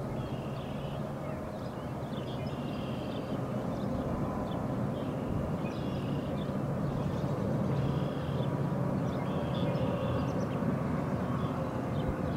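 Metra bilevel commuter train rumbling across a steel truss railway bridge, the low rumble slowly growing louder. Birds call repeatedly over it in short, high notes every second or so.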